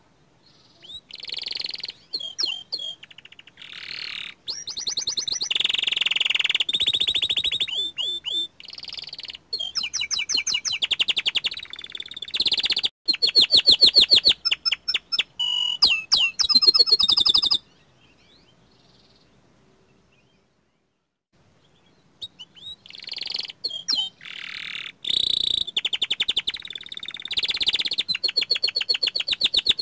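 Young domestic canary singing in full voice: long runs of rapid trills and rolling phrases. The song breaks off for a few seconds past the middle, then starts again.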